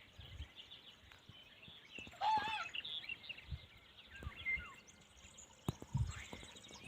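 Small birds chirping and twittering on and off, with one louder, rising-and-falling call about two seconds in and a few low thumps and clicks near the end.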